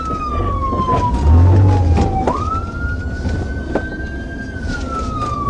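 Police car siren on a slow wail: the tone falls slowly, snaps back up about two seconds in, holds high and falls again near the end. A steady low vehicle rumble runs underneath during the pursuit.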